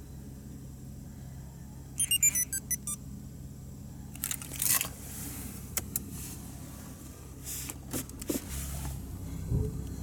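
BMW M135i's turbocharged straight-six idling after a remote start, with a quick series of short electronic beeps about two seconds in. Clicks and rustling follow, and near the end the engine note turns deeper and louder.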